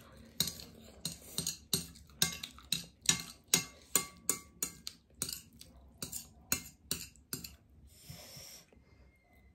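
A person chewing a mouthful of ramen noodles close to the microphone, with wet mouth clicks about twice a second that stop about seven and a half seconds in. A short rustling scrape follows about a second later.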